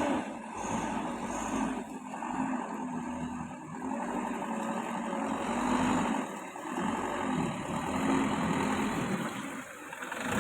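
A motor vehicle engine running and revving unevenly, its pitch rising and falling several times.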